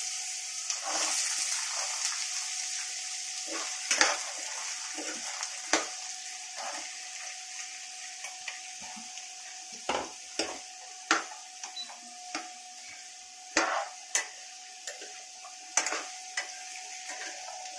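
Diced raw papaya sizzling in hot oil in a kadhai, loudest at the start and slowly dying down. A steel spoon stirs it, clinking against the pan at irregular moments. A faint steady tone runs underneath.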